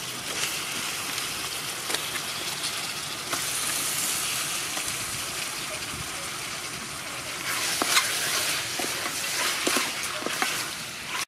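Raw frog pieces sizzling in bubbling hot oil and sauce in an aluminium pot. A wooden spoon scrapes and knocks against the pot as they are stirred, most often in the last few seconds.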